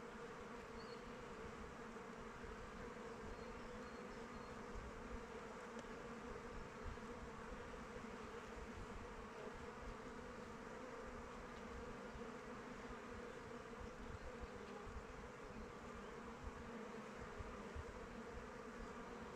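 Honeybees buzzing as they fly around their hive: a steady, even hum of many wingbeats.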